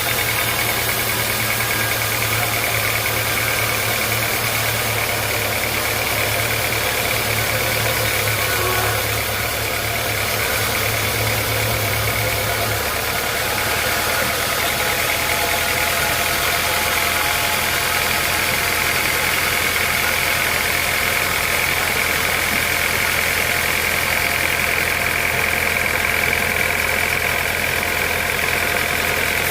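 Sawmill machinery running steadily with an engine-like drone and a high, even whine. The low hum changes pitch about 13 seconds in.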